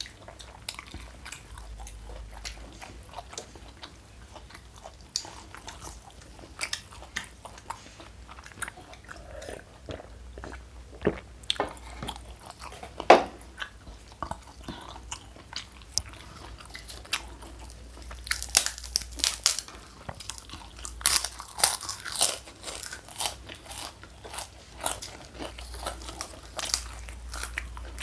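Close-miked chewing and biting of crunchy food, a run of sharp crunches between quieter chewing. The crunches come thicker and louder in the last third.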